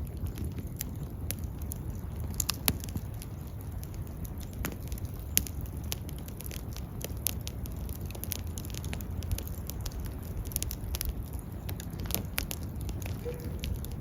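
Wood fire crackling, with frequent sharp, irregular pops over a steady low rumble of burning.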